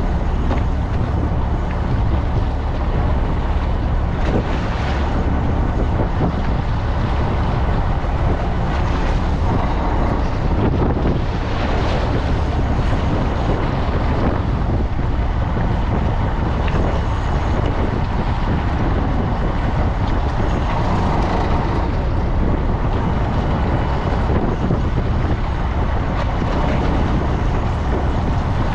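A fishing boat's engine running steadily, with wind buffeting the microphone and water rushing along the hull.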